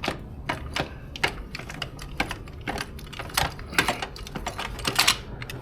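Car jack being worked down by hand: an irregular run of sharp clicks with a few short scrapes.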